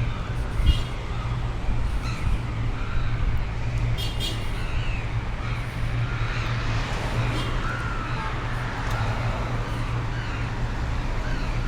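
Steady roadside traffic noise, a continuous low rumble of passing vehicles. A few brief high-pitched calls stand out, the clearest about four seconds in.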